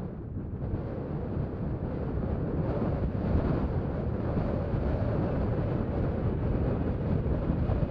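Wind buffeting the microphone over the low rumble of a Boeing 777-300ER's GE90 jet engines on landing approach, which grows louder from about three seconds in.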